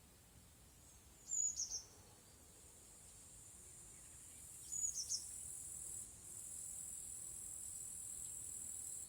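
A small bird gives two short bursts of high chirps, about three seconds apart, over a steady high-pitched insect buzz that grows louder through the second half and then cuts off.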